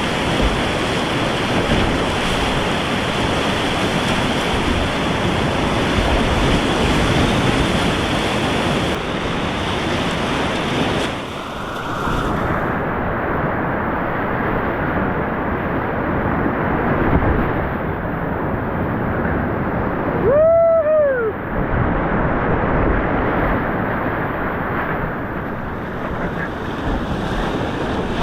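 Whitewater rushing steadily around a kayak on a creek rapid, its hiss growing duller a little under halfway through. A short rising-then-falling cry rings out about two-thirds of the way in.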